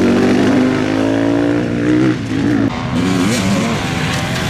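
Enduro motorcycle engine pulling hard with its pitch climbing steadily, then, after a short dip about two seconds in, the revs rising and falling as the throttle is worked.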